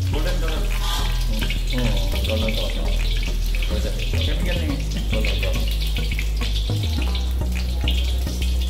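Hot oil in an iron wok sizzling and crackling as fried chicken pieces are lifted out with a slotted ladle, over a steady low hum.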